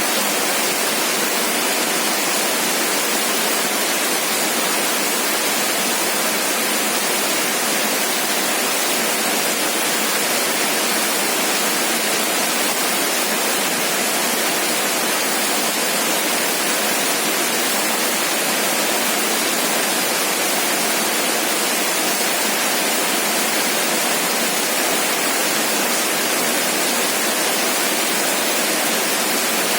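Heavy rain falling as a steady, even hiss with no separate drops, thunder or other sounds standing out.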